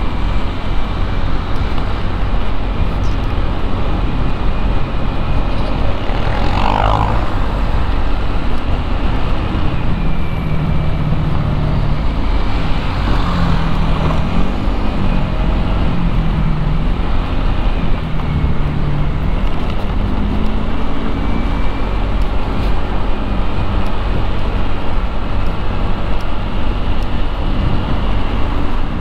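Road traffic noise: motor-vehicle engines running under a steady low drone whose pitch rises and falls, with a brief louder sweep about seven seconds in.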